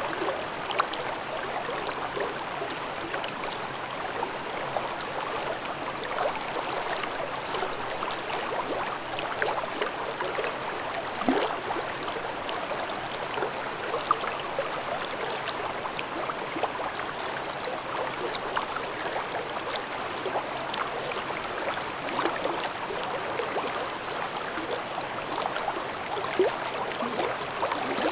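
Mountain stream babbling and gurgling over rocks, a steady rush of water with many small irregular splashes.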